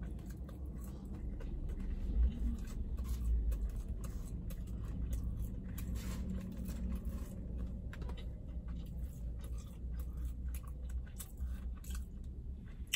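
Close-up chewing of a fried chicken biscuit, with soft wet mouth clicks and crunches coming irregularly, over a steady low rumble.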